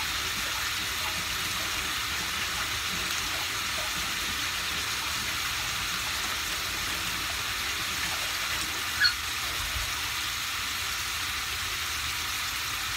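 Chicken pieces frying in hot oil in a wok, a steady sizzle, with one short sharp click about nine seconds in.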